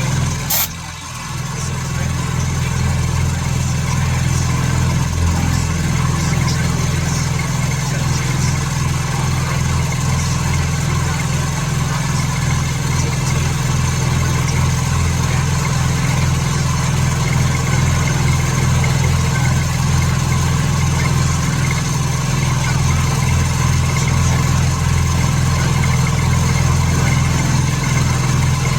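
A shop machine running with a steady low hum. About half a second in there is a sharp click, the level dips for a moment, then the hum comes back up and holds steady.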